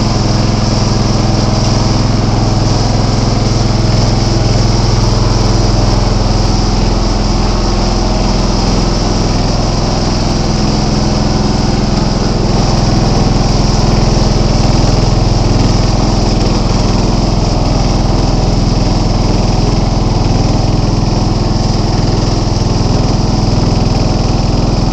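John Deere 265 lawn tractor's 17 hp Kawasaki V-twin engine running steadily and loud, warming up just after a cold start.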